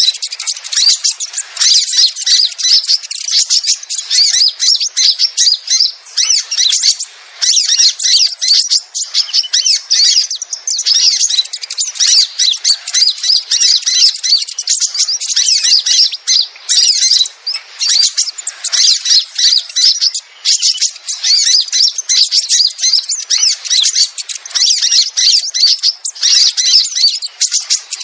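Sogon birds calling in a dense, unbroken stream of rapid, high-pitched chirps and squawks, as on a lure recording used to attract sogon.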